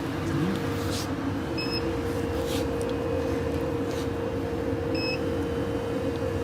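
Box adhesive-tape applying machine (SW ZDH-TS600) running with a steady hum. Two short electronic beeps come about one and a half seconds in and again near five seconds, with a few faint clicks between.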